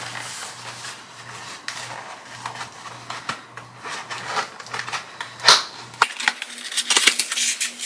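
Packaging being opened and handled: crinkling and rustling with scattered clicks and one sharp crackle about five and a half seconds in.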